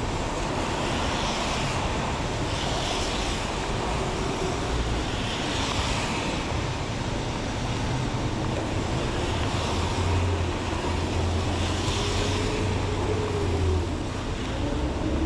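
Traffic on a rain-soaked city street in heavy rain: a steady wash of rain noise, with the hiss of tyres on wet pavement swelling and fading every few seconds as cars pass, and a low engine hum in the second half.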